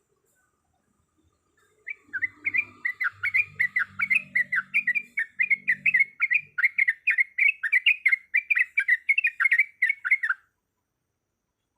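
Yellow-vented bulbul (trucukan) song: a fast, even run of sharp chattering notes, about four a second. It starts about two seconds in and stops abruptly near the end.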